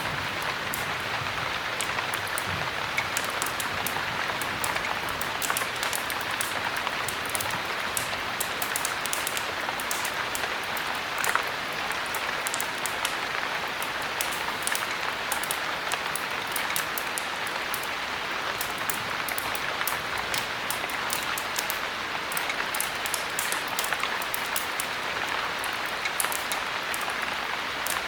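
Heavy rain falling steadily, a dense even hiss scattered with many small sharp drop ticks.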